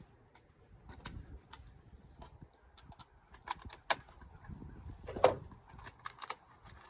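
Scattered light clicks and knocks of things being handled, with one sharper knock a little past five seconds in.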